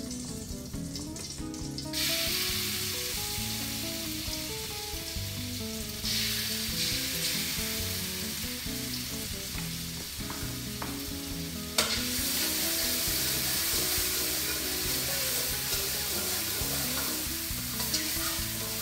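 Ground shallot and garlic spice paste sizzling in hot oil in a wok while a spatula stirs it, frying until fragrant. The sizzle starts about two seconds in and gets louder about six seconds in, with a sharp knock about twelve seconds in.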